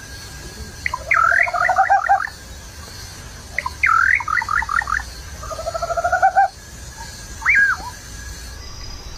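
A bird singing: three bursts of quick, varied whistled notes, followed by a single rising-then-falling whistle near the end.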